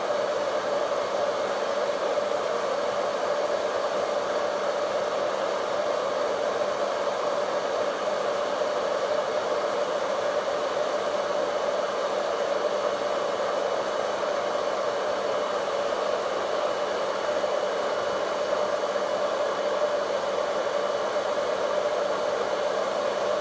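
Vidal Sassoon Hot Tools hair dryer running steadily: an even rush of blown air with a steady motor hum in it.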